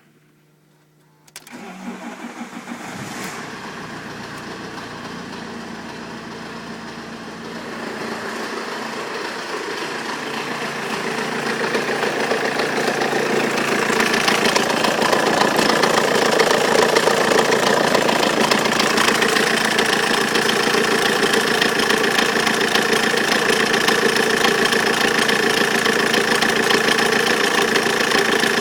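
Fiat Stilo 1.9 JTD four-cylinder common-rail turbodiesel engine starting about a second in, then running steadily. It gets louder in two steps, about a quarter of the way in and again near the middle, and holds there.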